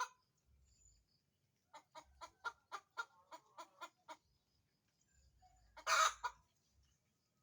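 A hen clucks in a quick run of about ten short clucks, followed a couple of seconds later by a single loud squawk. This is the cackling of a hen about to lay an egg.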